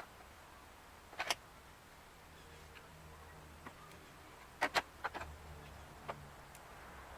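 A few scattered sharp clicks and clinks of hand tools and parts being handled during engine work, with several close together about four and a half to five seconds in, over a faint low hum.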